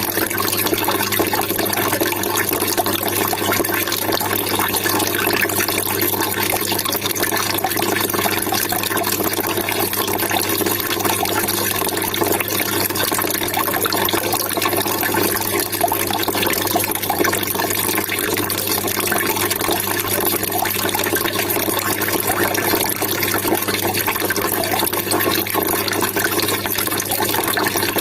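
Water trickling and gurgling steadily and without a break.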